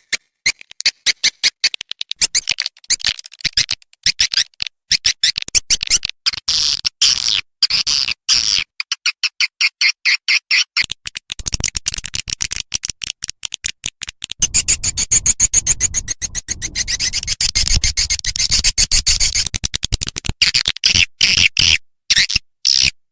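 Bird-lure calling recording: rapid, high chirps repeated many times a second, broken by a brief pause about nine seconds in and growing denser past the middle.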